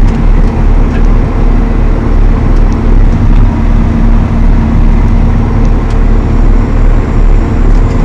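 Valtra T214 tractor's six-cylinder diesel engine running steadily with a loud, constant low hum.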